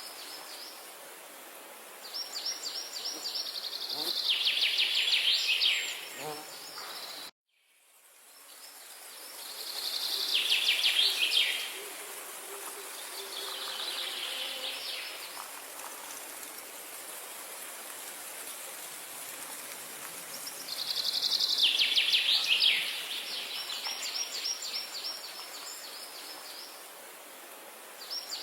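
A songbird singing, repeating a high, rapid trilled phrase five times, each dropping lower in pitch near its end, over a steady outdoor background hiss. About seven seconds in, all sound cuts out abruptly and then fades back in over a second or so.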